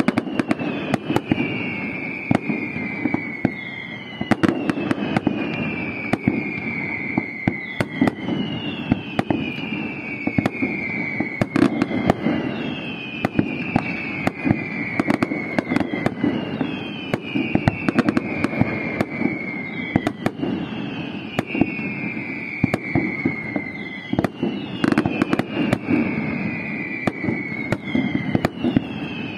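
Fireworks going off in a dense barrage: many sharp bangs and pops over a steady rumbling crackle. A high whistle falling in pitch repeats about every three and a half seconds throughout.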